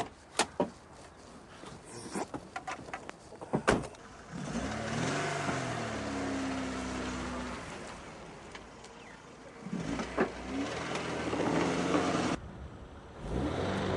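Car engine revving up, holding high revs for a couple of seconds, then dropping away, with a second spell of revving later that cuts off suddenly and starts again. A few sharp knocks come first.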